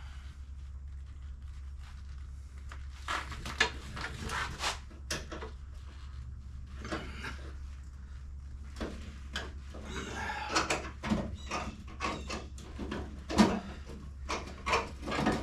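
Irregular knocks, clicks, scrapes and rattles of parts and tools being handled and fitted, busier in the second half, over a steady low hum.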